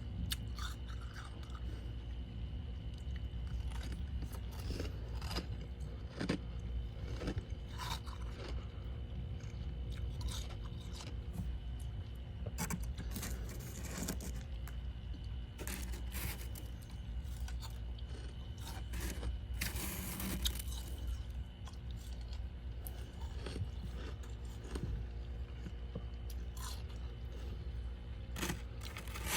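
Close-up chewing of freezer frost and ice chunks: irregular crisp crunches and bites, some louder than others, over a steady low hum.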